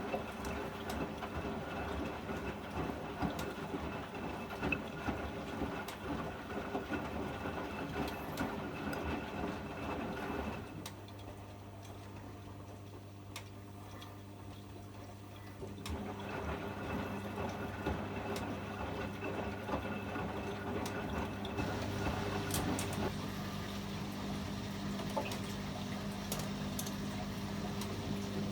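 Privileg 804 washing machine running its wash programme: motor hum with water sounds in the drum. About ten seconds in it drops to a quieter steady hum for some five seconds, then the fuller running and water sounds return.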